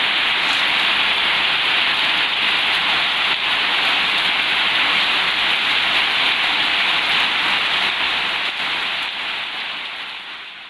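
Heavy rain pouring steadily on a zinc roof, a dense even hiss that fades out over the last few seconds.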